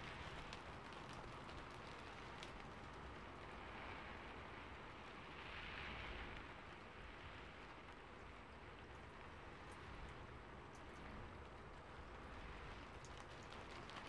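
Faint, steady rain patter with scattered light keyboard clicks; the rain swells briefly about six seconds in.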